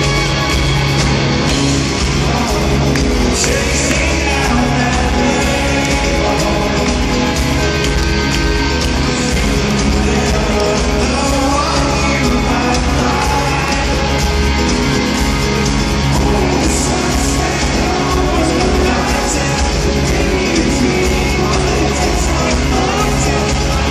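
A rock band playing live in a large concert hall, with a lead vocal singing over the band, heard steadily loud from the audience.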